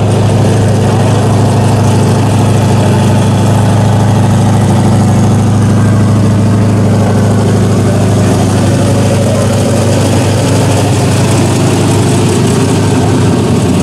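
Engines of two small-tire drag cars, an F-body Camaro and a Fox-body Mustang, idling loudly and steadily with a deep rumble while they stage at the start line before a launch.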